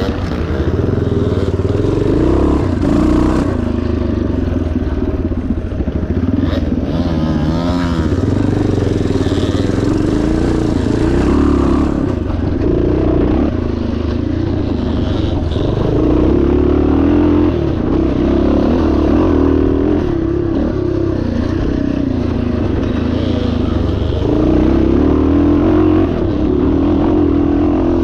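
1977 Yamaha TT500's single-cylinder four-stroke engine running hard off-road, its revs rising and falling continuously.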